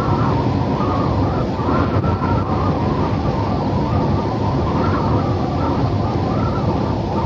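Steady rushing desert wind ambience, a low rumbling noise that swells and eases slightly.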